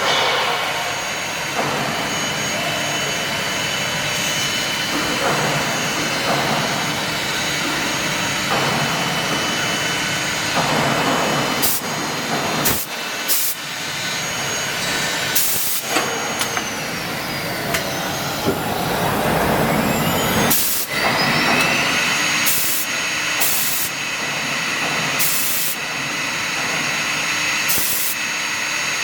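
Leabon SG 612J six-sided CNC panel drilling machine running: a steady mechanical hiss, broken by a string of short sharp hisses of air. Around the middle, whines glide up and down as the drilling spindles speed up and slow down.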